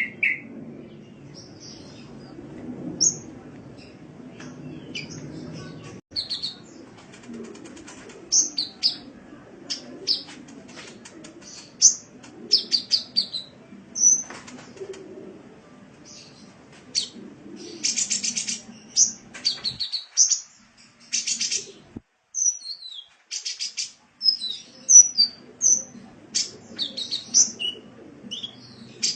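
Sunbird ('kolibri') song: a run of short, high-pitched chirps and rapid buzzy trills, over a low background rumble that drops out briefly about twenty seconds in.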